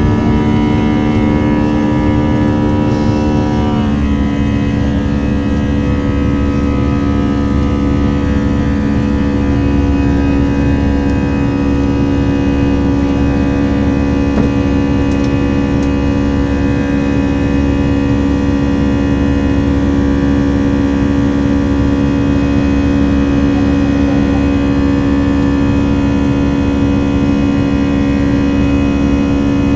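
Airbus A321's CFM56 jet engines running, heard inside the passenger cabin as a loud, steady whine of several tones over a low rumble. About four seconds in, the engine tones shift in pitch together, then hold steady again.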